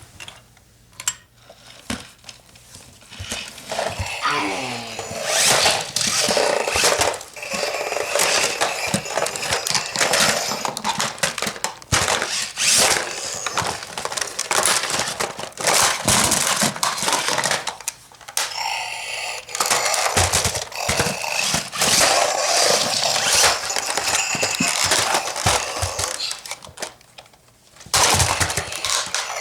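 Toy cars and playset pieces being knocked, scraped and bashed together in a mock fight: a long run of irregular plastic-and-metal clattering and thuds, with brief pauses.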